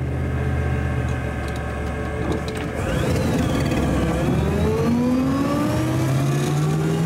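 1935 Auburn 851's straight-eight engine running at a steady note for about three seconds, then rising in pitch as the car pulls away and accelerates, heard from the driver's seat of the open car.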